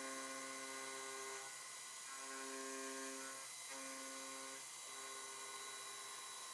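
Home-built CNC milling machine running while it mills a bearing seat: a steady whine that breaks off briefly three times, with a hiss underneath.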